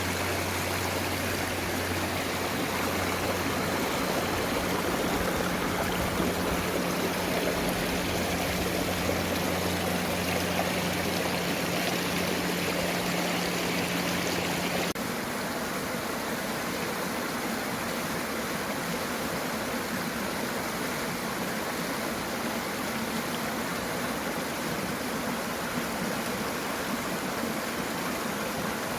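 Mountain stream rushing steadily over rocks. A low steady hum lies under it until about halfway, where the sound changes abruptly.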